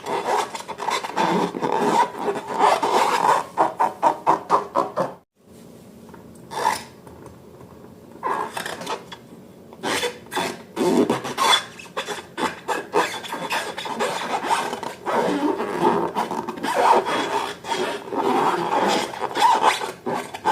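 Slime being squished and worked by hand, with dense wet crackling and popping. It breaks off for a moment about five seconds in, comes back sparser, then thickens again.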